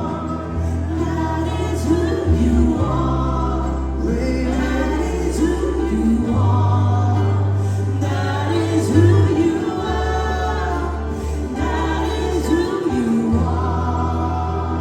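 A choir singing a gospel worship song with a band, over a low bass line that changes note every second or two.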